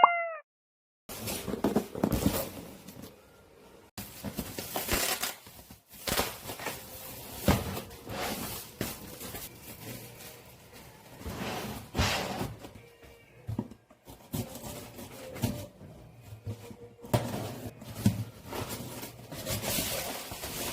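A short electronic beep, then irregular household handling noises: knocks, clatter and rustling of things being moved around a small room.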